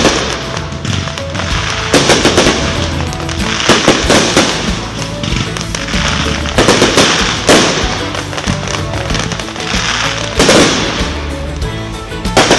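Aerial fireworks going off: repeated sharp bangs of shells bursting a few seconds apart, each followed by a rapid crackling, hissing spray of sparks.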